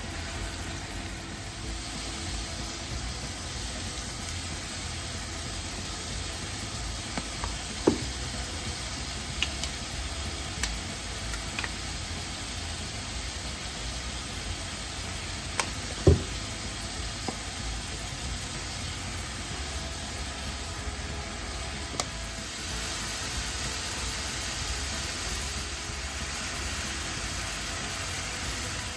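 Ground pork sizzling steadily in a pan, with a few clinks and knocks of a utensil against the pan, the loudest about sixteen seconds in.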